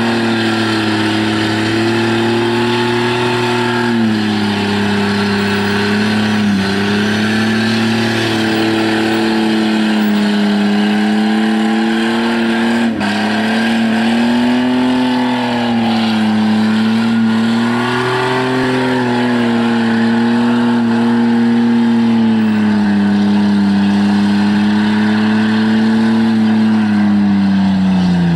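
Holden VR Commodore's 3.8-litre V6 held at high revs during a burnout, the rear tyres spinning, its pitch wavering up and down as the driver works the throttle. Near the end the revs fall away.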